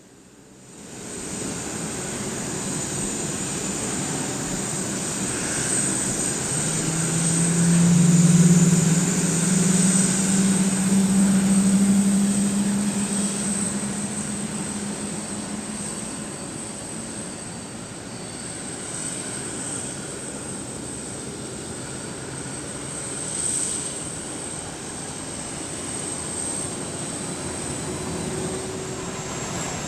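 Jet turbofan engines running, with a steady high whine over a broad rumble. A low hum swells and peaks between about seven and thirteen seconds in, then eases off.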